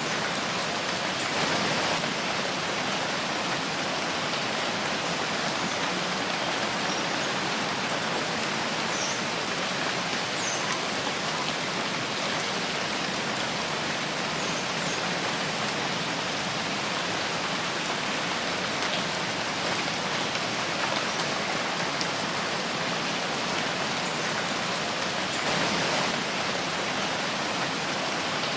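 Steady rain falling in a forest, an even dense patter with no single drops standing out. It swells slightly about a second and a half in and again near the end.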